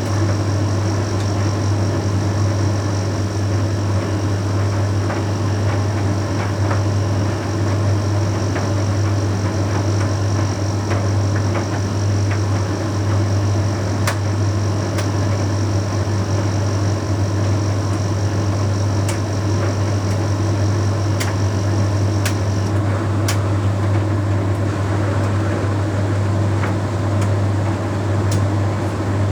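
Bosch Series 6 heat pump tumble dryer running mid-cycle on a Shirts load: a steady low hum under steady machine noise, with scattered light clicks. A faint high whine cuts off about three-quarters of the way through.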